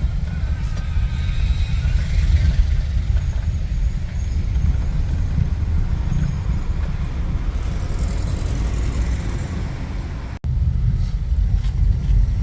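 Wind buffeting the microphone in a steady low rumble, over city street traffic. The sound cuts out for an instant about ten seconds in.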